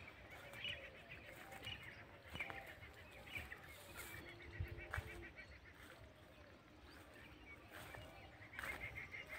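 Faint birds calling: quick chattering runs of high chirps come and go, with a fuller run near the end.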